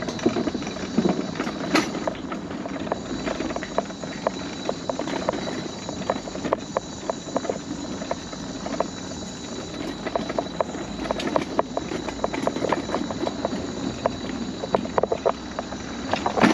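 Mobility scooter's wheels rolling over wooden boardwalk planks: a continuous run of clicks and clacks, several a second.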